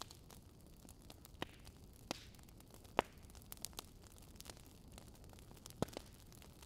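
Wood fire crackling in a fireplace: irregular sharp snaps and pops over a low, steady hiss, the loudest pop about three seconds in.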